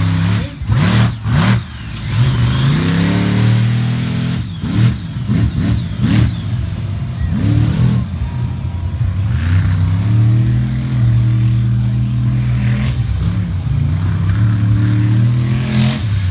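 Monster truck engine revving hard, the throttle blipped up and down several times in the first half, then holding a steadier, slowly rising and falling pitch.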